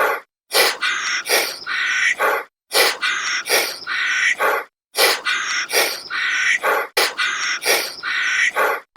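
A bird's harsh, raspy calls in repeated runs of three or four, each run about two seconds long with brief gaps between.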